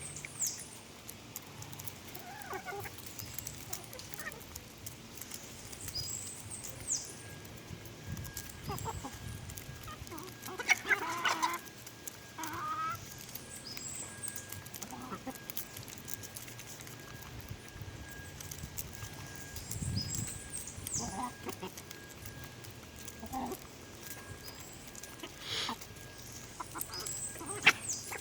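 Chickens clucking as they peck at scattered popcorn, with quick sharp taps of pecking and a few louder bursts of calls.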